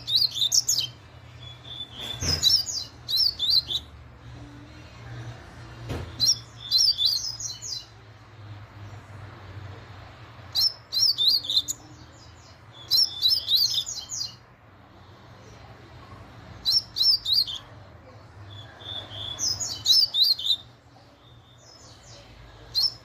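Double-collared seedeater (coleiro) singing the 'laranjeira' song type: short, very fast phrases of rapid high notes, repeated every two to three seconds. A steady low hum runs underneath, and two brief knocks come at about two and six seconds in.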